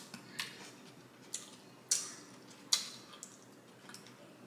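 Mouth sounds of a person chewing a bite of food: a few short, sharp, wet smacking clicks at uneven intervals.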